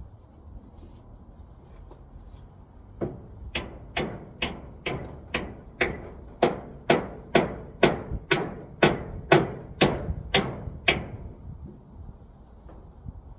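Hammer striking repeatedly: a run of about seventeen evenly paced blows, roughly two a second, starting about three seconds in and stopping near eleven seconds.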